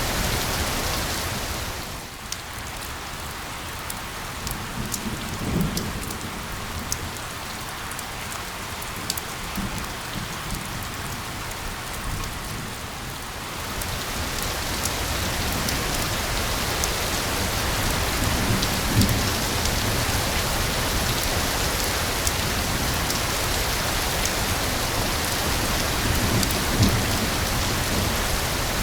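Steady rain. For the first dozen seconds it is thinner, with individual drop ticks audible. After that it thickens into a denser downpour. A few short, low rumbles come through.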